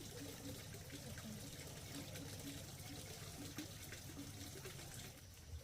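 Running water: a steady rush with a low hum beneath.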